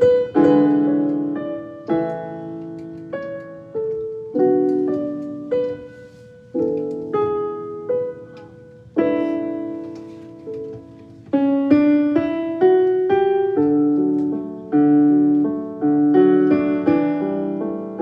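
Background music: solo piano playing slow chords and melody notes, each note ringing and fading.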